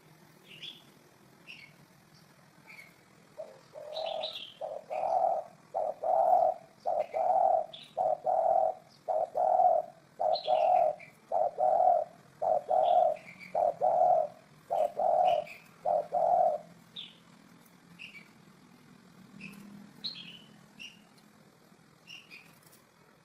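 Spotted dove cooing: a regular run of about fourteen short, low coos a little under a second apart, starting a few seconds in and stopping about two-thirds of the way through. Small birds chirp in short high notes throughout.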